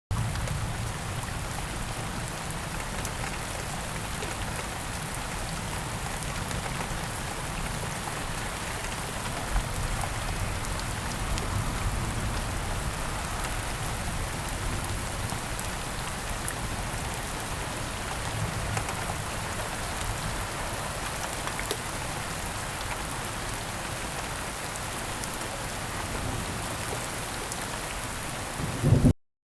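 Steady rain falling: an even hiss scattered with fine drop ticks. It starts abruptly and, near the end, a brief low thump is the loudest moment just before the sound cuts off.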